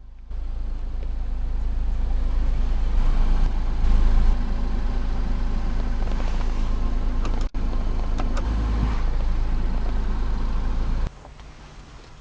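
Mini Cooper S Paceman's 1.6-litre turbocharged four-cylinder engine idling with a steady low hum, with a few light clicks midway. The hum drops away abruptly about a second before the end.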